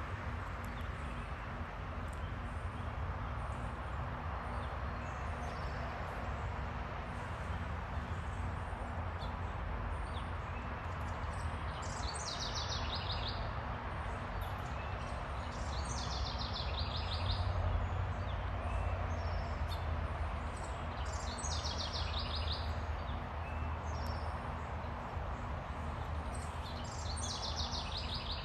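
A songbird singing four short phrases, each a fast series of high notes falling in pitch and lasting about a second and a half, over a steady low background rumble.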